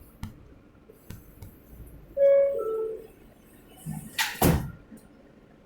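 R160A subway car's door chime, two descending tones, followed about two seconds later by a bang as the sliding doors shut.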